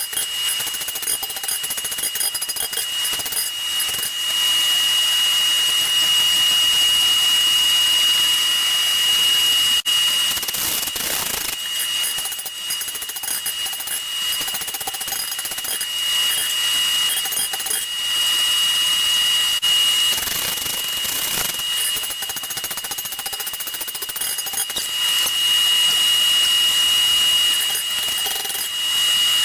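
Coal forge's air blower running steadily with a constant high whine over a rushing hiss while the steel heats in the fire, with a few scattered knocks.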